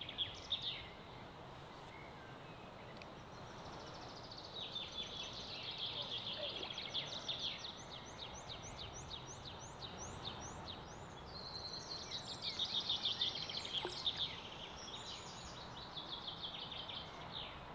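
A songbird singing several long phrases of fast, high repeated notes and trills, with short pauses between phrases, over a steady background hiss.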